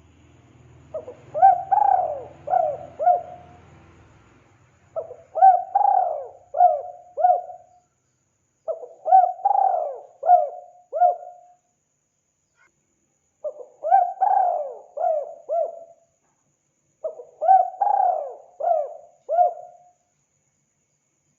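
Spotted dove (tekukur) singing its cooing song, five phrases of four or five coos each, repeated with short pauses between them.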